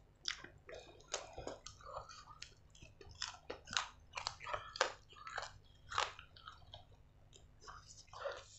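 Close-miked chewing of roasted chicken, with irregular sharp mouth clicks and smacks, several a second.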